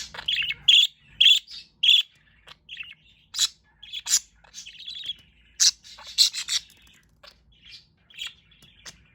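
Budgies (budgerigars) chirping and chattering in a quick, irregular run of short high chirps, some sharp and loud.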